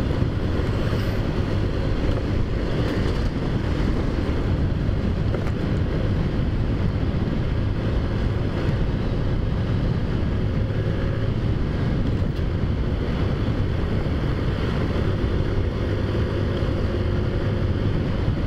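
Wind rushing over the microphone while riding a Taotao Zummer scooter, its small four-stroke engine running steadily underneath at a constant pace.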